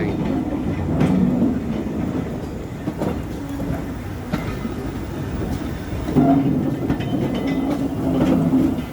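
Train running along the rails, a continuous low rumble with wheels clicking over the rail joints; the rumble swells again about six seconds in.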